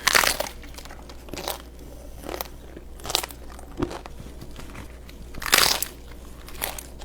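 Crunchy food being bitten and chewed: a series of separate crisp crunches about a second apart, the loudest about five and a half seconds in.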